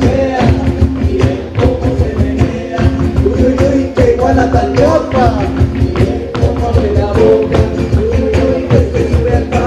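A live band playing with a steady percussion beat and a voice singing the melody.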